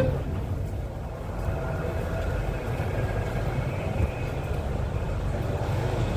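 Inside an MTR M-Train carriage as it pulls away after the doors close: a steady low rumble of the traction motors and wheels on the track, with a faint whine above it.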